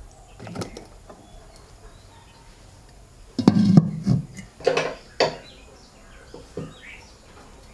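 A few irregular knocks and clatters, the loudest and densest about three and a half to five and a half seconds in.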